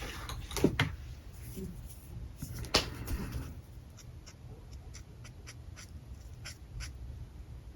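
Alcohol marker working on paper: scratchy strokes and sharp clicks, the loudest about three seconds in, then a run of light ticks, two or three a second, in the second half.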